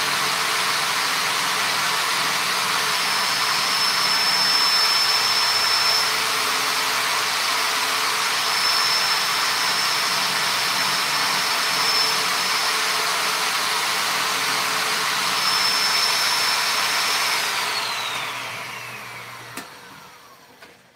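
An electric power tool's motor running steadily with a loud whir, a high whine coming and going on top. About eighteen seconds in it is switched off and spins down, its pitch falling as it fades out.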